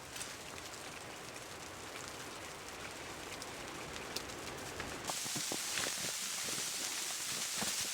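Snow pattering steadily, a fine even hiss scattered with small ticks. About five seconds in it switches abruptly to a louder, brighter hiss with sharper ticks.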